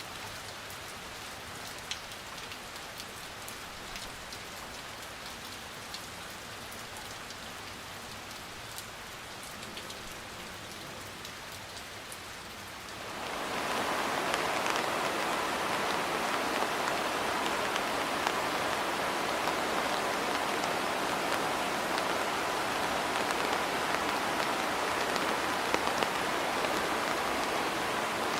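Steady rain falling on surfaces, lighter at first with individual drops ticking, then abruptly turning heavier and louder a little under halfway through.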